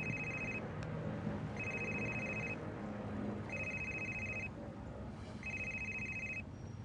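Telephone ringing with an electronic trilling ring, about one-second rings repeating roughly every two seconds, four times.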